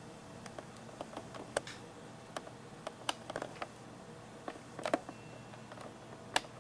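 A series of small, irregular clicks and taps, about fifteen in six seconds, a few louder than the rest, over a faint steady hiss.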